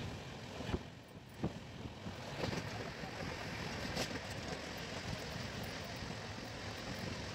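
Jharkhand Swarna Jayanti Express passenger coach running at speed, heard from the open doorway: steady rushing wind and wheel rumble on the rails, with a few sharp clacks of wheels over rail joints.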